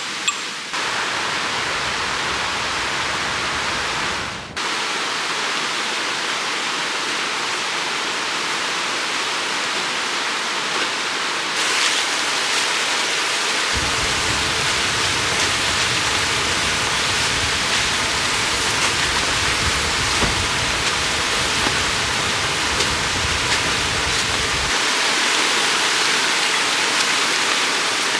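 River water rushing, a steady broad hiss of flowing water. The sound shifts abruptly a few times, and a low rumble joins it for a long stretch in the middle.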